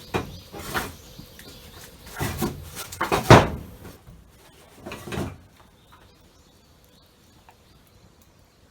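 Several knocks and clattering handling noises, the loudest about three seconds in, stopping after about five seconds.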